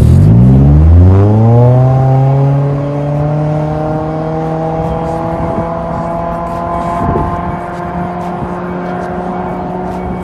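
Toyota RAV4 Hybrid's 2.5-litre 2AR-FXE four-cylinder running through an MS-R valved cat-back exhaust. It climbs quickly in pitch over the first two seconds, then holds a steady, slowly rising drone.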